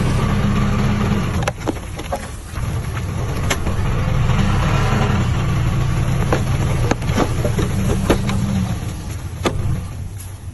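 Diesel engine of heavy earthmoving machinery running steadily, with a handful of sharp knocks and clanks scattered through it. The engine dips briefly about two and a half seconds in and eases off near the end.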